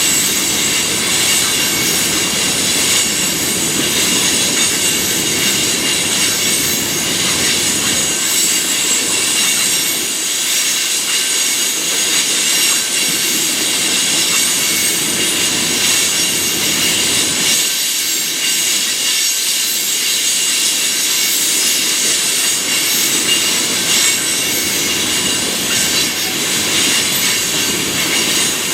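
Freight train cars rolling past with a steady high-pitched wheel squeal over the rumble and clatter of the wheels on the rails.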